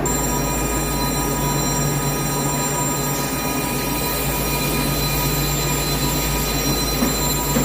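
CNC lathe running: a steady machine hum with several high-pitched whining tones held over it.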